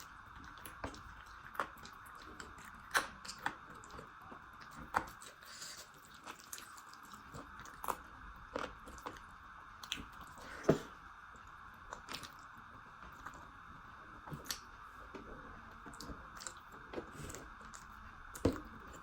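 Close-miked mukbang eating: a person chewing and biting food, with irregular wet mouth clicks, smacks and soft crunches, one sharper click a little past halfway, over a steady hiss.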